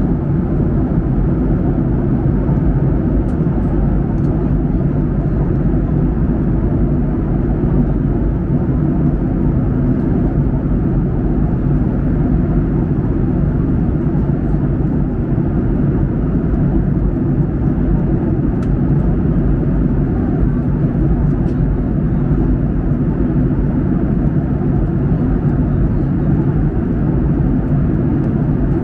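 Steady drone of a Boeing 737-800's engines and airflow, heard from inside the cabin in flight: an unchanging low rumble with no rises or breaks.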